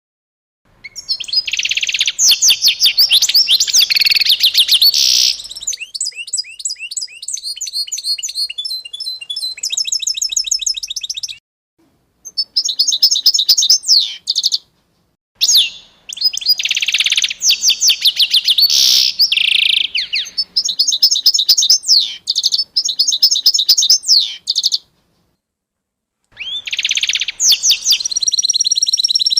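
A songbird singing long phrases of rapid, high chirps and trills, broken three times by sudden complete silences, about a second and a half in total near the middle and a longer one near the end.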